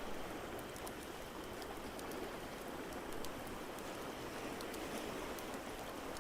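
Crackling fireplace giving small scattered pops, a few a second, over a steady wash of water noise.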